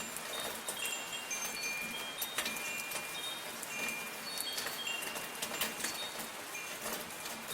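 Wind chimes tinkling irregularly, short high ringing notes every fraction of a second, over the steady hiss of soft falling rain.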